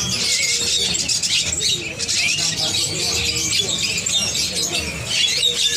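A chorus of many caged songbirds chirping and twittering at once, with faint voices underneath.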